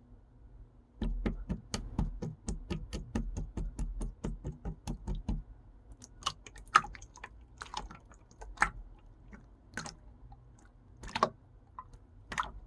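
Pink and blue mixed slime being pressed and worked by hand, giving a fast, even run of crisp clicks, about five or six a second, from about a second in. After about five seconds the clicks thin out to scattered single pops.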